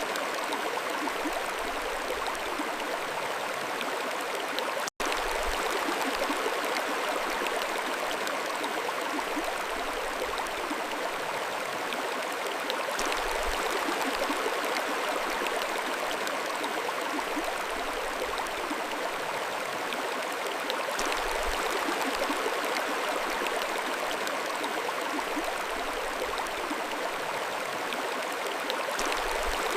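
Mountain stream flowing in a steady, even rush of water, with a split-second dropout in the sound about five seconds in.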